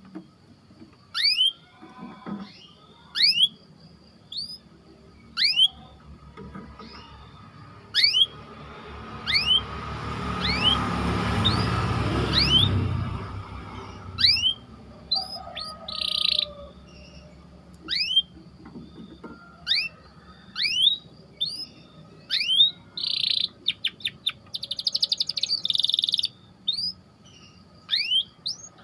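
Canary chirping: short sharp rising calls repeated every second or two, with fast buzzy trills in the later part. A rushing noise swells and fades for a few seconds in the middle.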